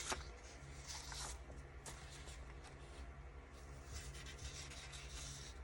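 Soft rustling and sliding of paper being handled and sorted, in a few short swishes, over a faint steady low hum.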